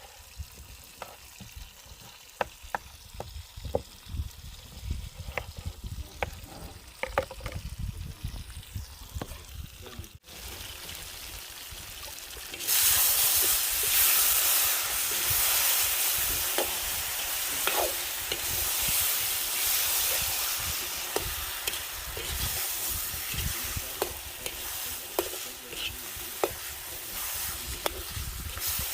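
Food frying in a cooking pot, a utensil clicking and scraping against it as it is stirred. About halfway through, a loud sizzle starts and keeps going under the stirring.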